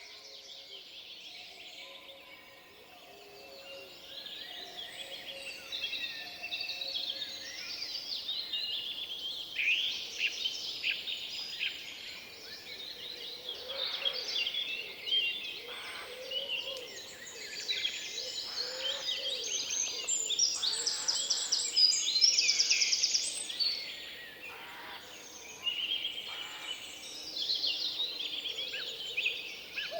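Forest birdsong: several birds singing and calling at once, a dense overlapping mix of quick chirps and trills, busiest and loudest in the middle and latter part.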